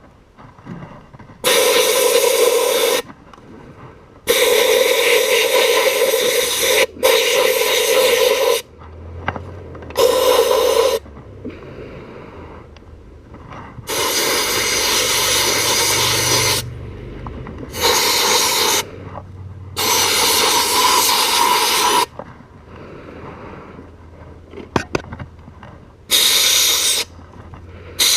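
Siphon-feed sandblast gun blasting glass bead onto an aluminium motorcycle engine: a loud hiss of air and grit in about eight bursts of one to three seconds, each starting and stopping sharply as the trigger is pulled and released.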